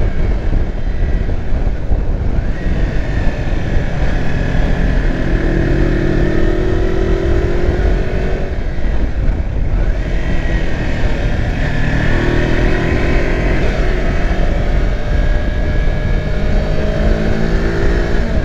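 Kawasaki Versys X300's parallel-twin engine running at road speed through a twisty section, its pitch rising a few times as it accelerates, over heavy wind rush on the microphone.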